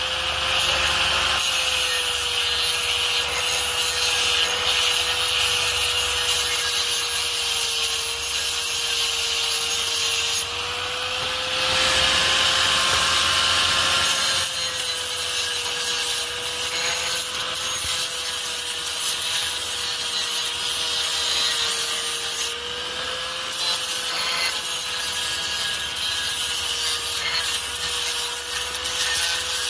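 Handheld power tool running steadily with a whining motor while cutting into the metal of an exhaust pipe. The scraping, grating noise drops out briefly about eleven seconds in and again about twenty-three seconds in, as the tool comes off the metal, and its whine wavers slightly with the load.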